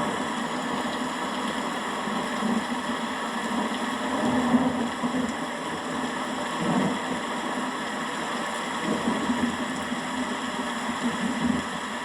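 Rain falling steadily as an even hiss, with low rumbles of thunder swelling and fading several times.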